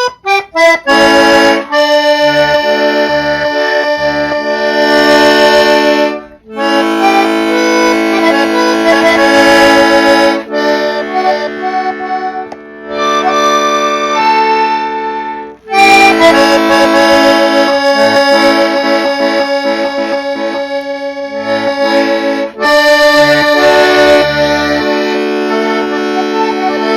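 Accordion playing a tune in sustained chords, with short left-hand bass notes coming and going underneath. It stops briefly between phrases three times.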